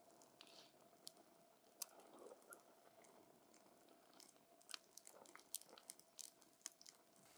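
Wood campfire crackling: scattered sharp pops and snaps from the burning wood, coming thicker in the second half, over a soft hiss of the flames and a faint steady hum.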